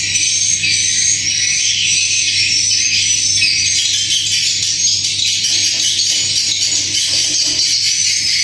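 Swiftlet calls: a dense, continuous high-pitched twittering, with a faint steady low hum underneath.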